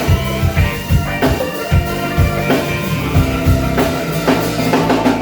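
Live band music: a drum kit with kick drum keeping a steady beat under a bass line and sustained instrumental chords.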